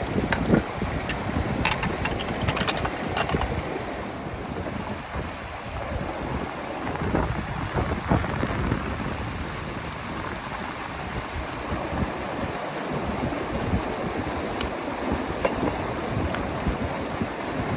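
Steady rush of flowing river water, with wind gusting on the microphone. A few sharp clicks come in the first few seconds.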